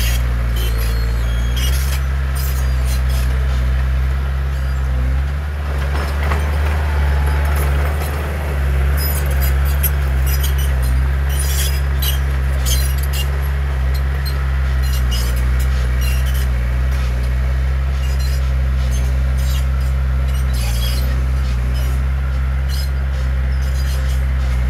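Heavy diesel earthmoving machinery running steadily under load, with a deep engine drone and frequent short metallic clanks and rattles over it. A rougher, hissing swell comes about six seconds in.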